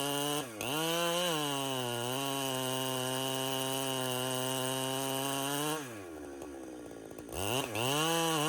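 Two-stroke chainsaw running at high throttle, with a brief dip in engine speed about half a second in. Near the end the throttle drops off for about a second and a half, then the saw revs back up to full speed.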